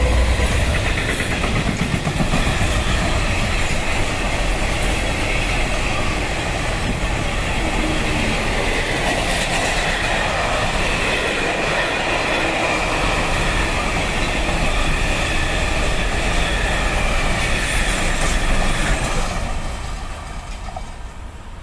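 A container freight train passing close by: the locomotive goes past first, then the loaded container wagons roll by on the rails, with faint high tones over the steady noise. The sound drops away near the end as the last wagons pass.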